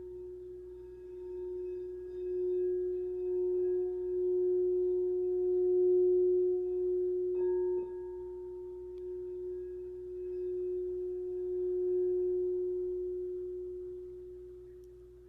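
Quartz crystal singing bowl ringing as a single steady, sustained tone with faint higher tones. It swells louder, dips briefly about halfway through, swells again and slowly fades.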